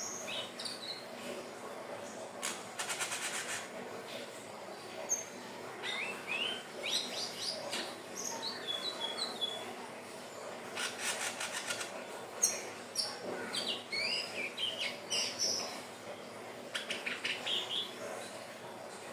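Indigo flycatcher (sikatan ninon) singing: a scattered run of short, high sliding whistles broken three times by quick buzzy trills.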